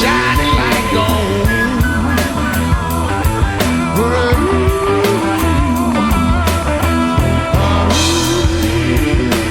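Electric blues band playing: a lead line that slides and bends in pitch over a steady bass and drums with regular cymbal hits.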